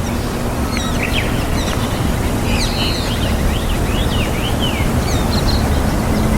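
A small bird calling: a run of short, quick chirps that sweep up and down in pitch, over a steady low rumble.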